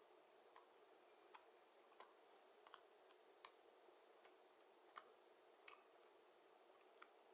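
Near silence with about ten faint, irregular wet clicks, roughly one every half second to a second, from a person chewing a mouthful of burger.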